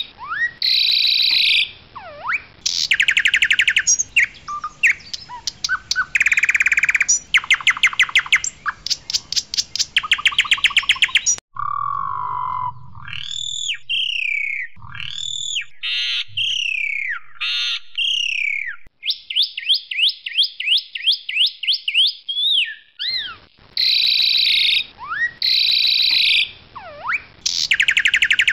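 Pied myna (Asian pied starling) singing loudly in a varied song of fast rattling trills, clear whistles and gliding notes that sweep up and down, switching abruptly from phrase to phrase.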